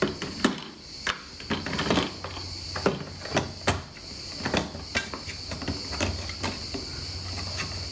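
Irregular plastic clicks and knocks as parts of a Bosch bagless vacuum cleaner are handled and pushed back into place.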